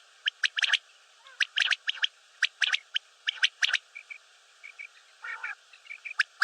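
Common quail calling: sharp notes in quick groups of two or three, the quail's repeated three-note phrase, coming about once a second, with softer short chirps in between during the second half.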